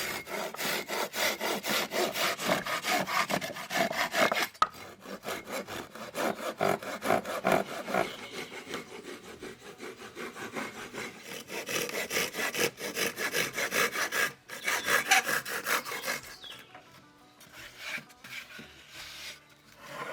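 Hand saw cutting wood in fast, even back-and-forth strokes, pausing briefly twice and thinning out over the last few seconds.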